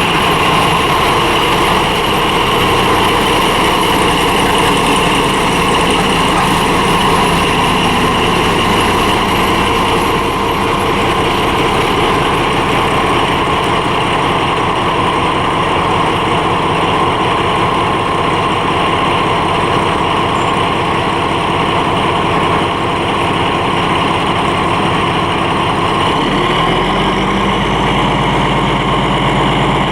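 Railway locomotive running steadily. About 26 seconds in, a deeper rumble joins it, along with a faint rising whine.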